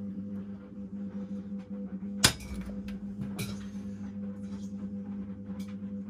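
Washing machine running with a steady electric hum from its motor or pump, and a sharp clink about two seconds in, with a smaller one about a second later.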